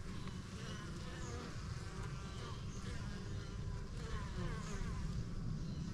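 Honeybees buzzing around a hive: a steady drone, with the pitch of single bees wavering as they fly past.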